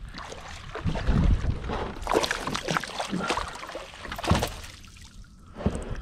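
Water splashing and irregular knocks and handling noises as a hooked largemouth bass is fought in and landed in a fishing kayak.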